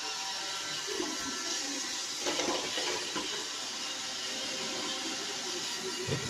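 iRobot Roomba 760 robot vacuum running: a steady whir and hiss from its suction fan and brushes, with several steady whining tones. A few brief, louder rattles and knocks break in, mostly between about two and three seconds in and again near the end.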